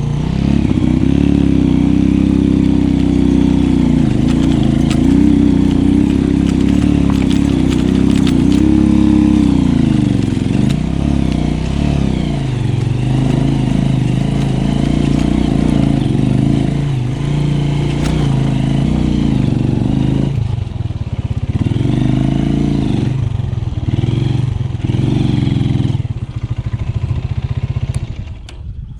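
Motorcycle engine pulling up a steep mountain track, its carburetor freshly adjusted for high altitude. The revs rise and fall over and over as the rider works the throttle. The engine eases off and goes quiet near the end.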